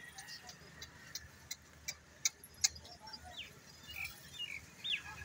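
Faint, scattered sharp ticks, then a few short chirps from a small bird, the last two quick rising-and-falling calls near the end.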